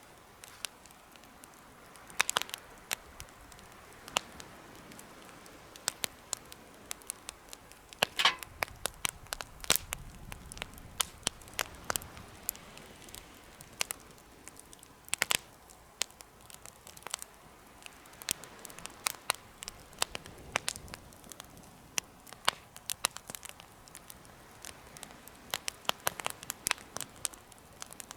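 Wood fire burning in a homemade fire stand, crackling with irregular sharp pops over a faint hiss. The pops come at random, with louder clusters about two, eight and fifteen seconds in.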